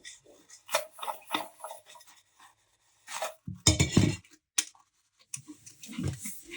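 Household items, such as dishes and cutlery, being handled and set down: a run of light clinks and knocks, with a louder cluster of knocks about halfway through.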